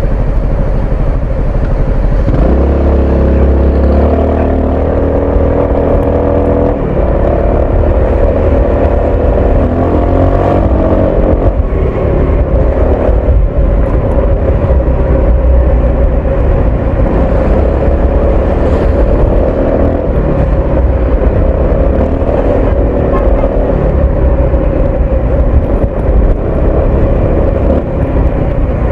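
Honda ADV 350 scooter's single-cylinder engine and exhaust under way in city riding. It picks up with a rise in pitch about two and a half seconds in, then eases off and pulls again several times, over a steady low rush of wind and road noise.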